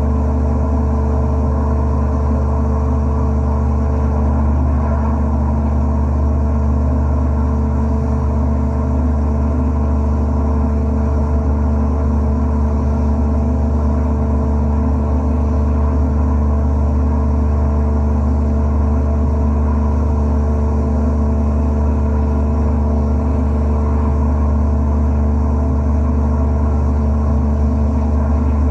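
Wet abrasive blasting cabinet running with a steady, loud, low drone, its pump and blast noise unchanging. A faint steady tone drops out about four seconds in.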